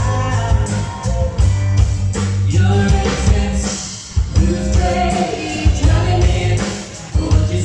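Live band playing a song: a lead singer over electric bass, guitar and a drum kit keeping a steady beat, with brief drops in loudness about four seconds in and near the end.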